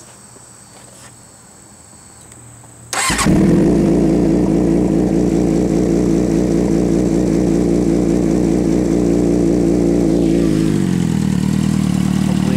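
A 2006 Suzuki GSX-R600's inline-four engine, fitted with a Two Brothers Racing slip-on exhaust canister, starts suddenly about three seconds in and runs at a fast idle through the exhaust. Near the end the idle drops to a lower, steady speed.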